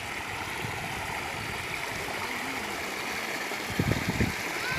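Steady rush of flowing floodwater from the river, with a few low thumps near the end.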